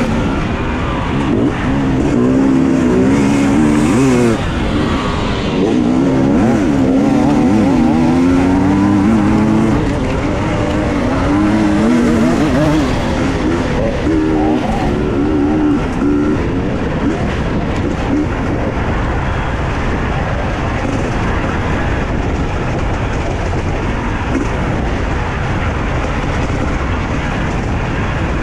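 Husqvarna TE 250i two-stroke enduro motorcycle engine revving up and down repeatedly under racing load, its pitch rising and falling every second or two. From about halfway on, the engine note is steadier and less distinct under a rushing noise.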